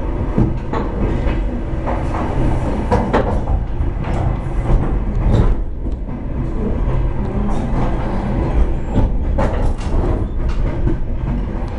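Passenger train running on the rails, heard from inside the carriage: a steady low rumble, with irregular clacks and knocks from the wheels.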